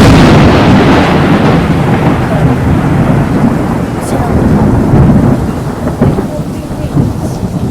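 Loud rumbling thunder with rain. It starts suddenly, carries on in uneven swells and eases slightly near the end.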